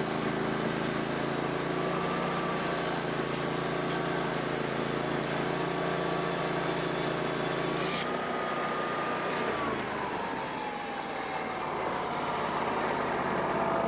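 Wood-Mizer band sawmill's engine running steadily, then dropping back about eight seconds in, with a whine that falls in pitch over the following seconds as it slows.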